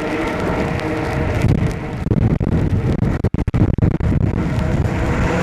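Wind buffeting the chest-mounted camera's microphone on a moving e-bike in the rain, a dense steady rumble. The sound drops out sharply several times a little past halfway through.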